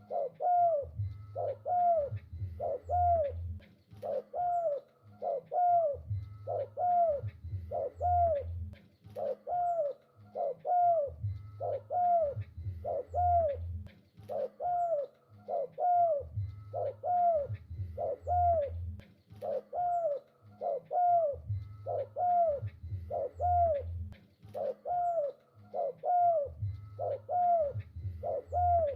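Spotted dove (tekukur) cooing over and over, about one arched note a second, in phrases that repeat about every five seconds.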